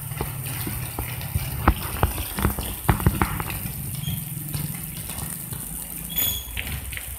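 Rain falling on a concrete yard and puddles, with a few sharp drips in the first half, over a steady low engine rumble. A short high chirp sounds about six seconds in.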